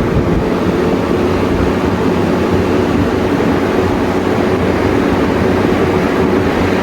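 Aerospeed BX100 box fan running steadily on its high speed setting: a loud, even rush of air with a faint hum underneath.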